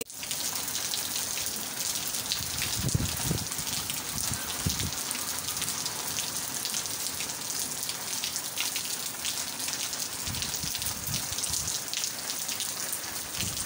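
Heavy rain pouring onto a concrete rooftop terrace, a steady dense hiss of splashing drops, with a few low thuds on the microphone.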